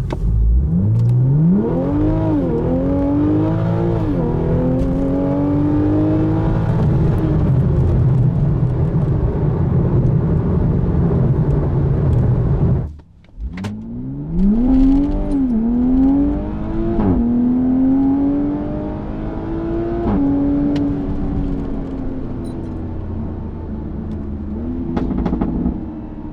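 2020 Toyota Supra's turbocharged B58 inline-six running through a Borla ATAK exhaust, with stock catalytic converters, under full throttle. The engine note climbs through the revs and drops sharply at each upshift. The pull is heard twice: it stops suddenly about 13 s in, then a second full-throttle run climbs through three or four more shifts.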